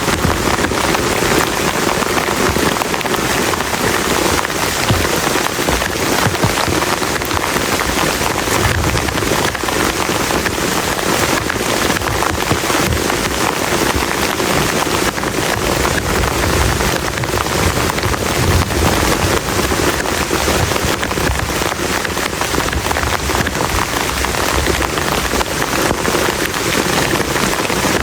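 Heavy rain falling steadily, a dense unbroken patter on a camp shelter.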